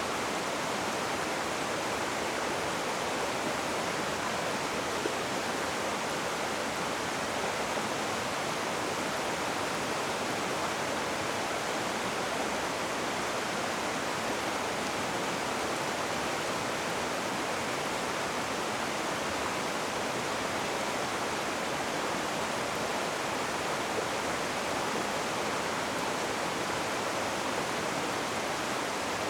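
Rushing river water: a steady, even rush with no breaks or changes.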